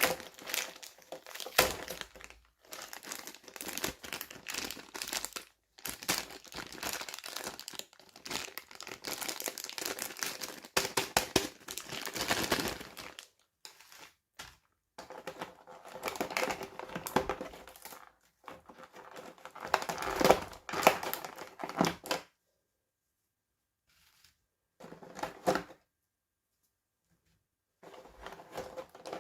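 Plastic toy packaging crinkling and tearing as it is handled and opened by hand, in dense crackly bursts with short pauses. It stops for several seconds near the end, then starts again.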